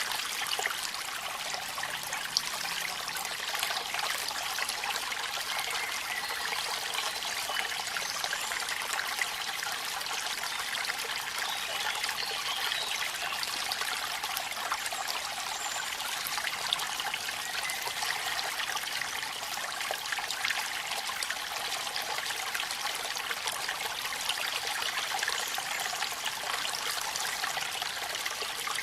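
Waterfall and rain at night: a steady, even rush of falling water with no break, carrying a few faint short high chirps now and then.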